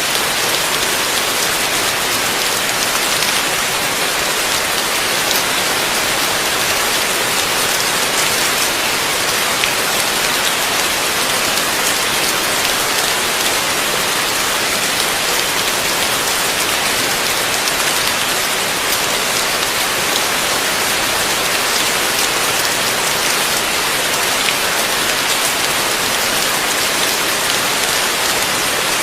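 Heavy rain falling steadily, a dense, even hiss of drops striking surfaces, with no thunder.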